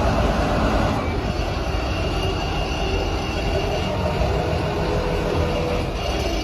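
Steady rumble of a vehicle engine running, with no change in pitch or speed.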